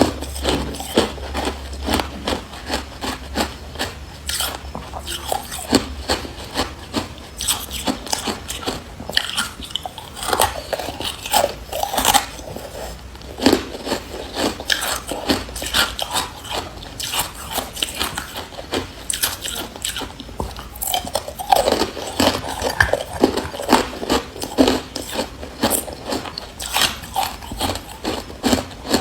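Person biting and chewing hard carbonated ice close to the microphone: a continuous run of sharp, irregular crunches and cracks, several a second.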